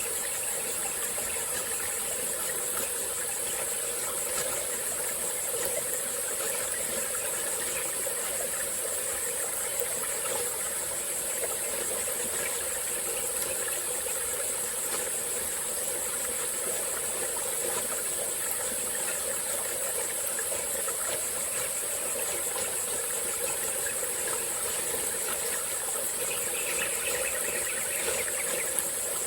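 A small tropical forest stream flowing and trickling steadily, under a continuous high-pitched drone of insects.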